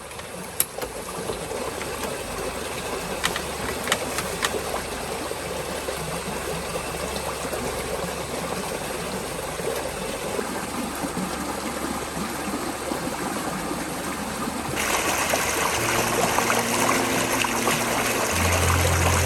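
Water flowing steadily, with a few sharp clicks in the first seconds. About fifteen seconds in the rush grows louder, and background music with low held notes comes in near the end.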